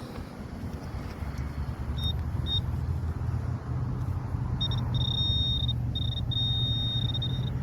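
Metal detector sounding high electronic beeps, which signal metal in the dig: two short beeps about two seconds in, then longer, near-continuous tones. Under them runs a steady low engine rumble.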